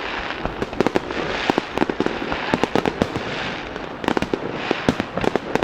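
Festival fireworks: dense volleys of sharp cracks and pops that come in clusters about every second, over a steady crackling hiss.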